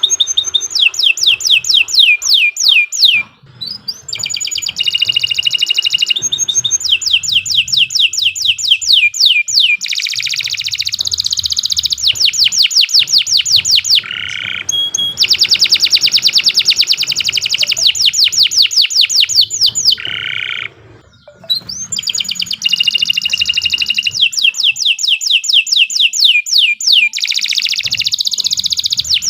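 Domestic canary singing a long, continuous song of fast trills: rapid runs of repeated falling notes, each run a second or two long, with short pauses about three seconds in and around twenty seconds in.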